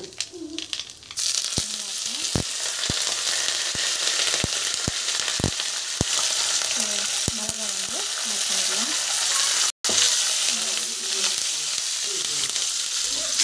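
Curry leaves and dried red chillies frying in hot oil in a steel kadai: a loud sizzle that starts suddenly about a second in as they hit the oil, and keeps going while they are stirred. Several sharp clinks of the steel ladle against the pan.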